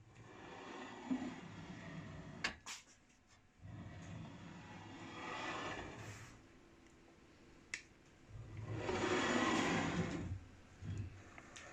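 A slider carriage on 608 ball bearings rolling along square steel tube rails, pushed back and forth three times, each pass a rumbling roll of about two seconds, with a few sharp clicks between passes.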